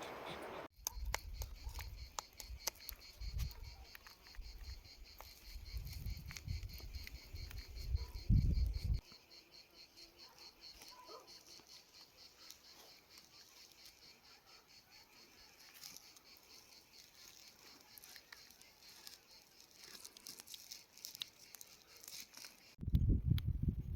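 Insects chirping in a steady chorus of fast, evenly pulsing high trills. Low rumbles sound through the first nine seconds and return near the end.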